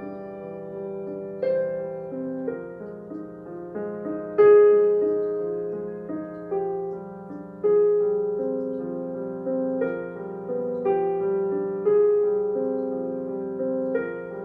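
Solo piano playing a slow, dissonant minor piece: clashing chords and single melody notes struck over a held low bass, each note fading after it is struck, the loudest chord coming about four seconds in.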